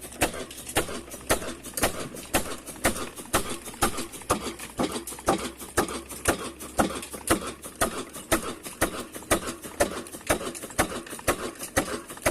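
Old engine running at a slow, even pace, each stroke a sharp knock, just under two strong beats a second with lighter clicks between.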